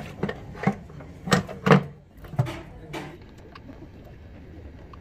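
A run of about seven irregular knocks and clanks, the loudest near the middle of the second second, fading to a quieter steady workshop background for the last two seconds.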